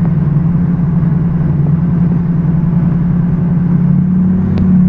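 Ford 6.0 Power Stroke V8 turbodiesel running steadily under heavy load, towing a loaded dump truck uphill in four-low. Its note steps up slightly near the end.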